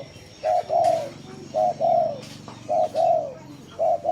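Spotted dove cooing: four repeated two-part coos, each a short note followed by a longer arched one, about one a second.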